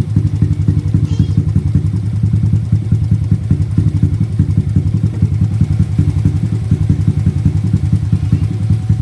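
Drag motorcycle with an open pipe (no muffler) idling steadily, loud and fast-pulsing, with no revving.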